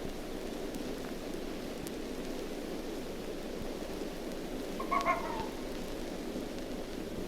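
A single short red fox call, pitched and harsh, about five seconds in, over a steady background hiss.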